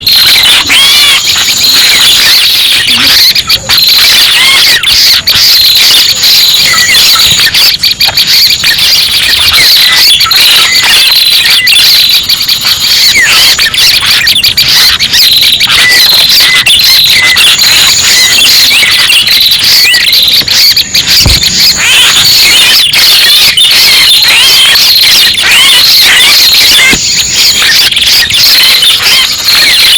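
Bird-trapping lure recording of prenjak pala merah calls: dense, high-pitched, overlapping chirps and squeaky trills repeating without a break, played very loud.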